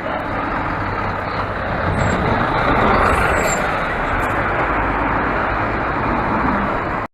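Steady road vehicle noise, a dense rushing rumble like heavy traffic passing close by, swelling a little in the middle and cutting off suddenly at the end.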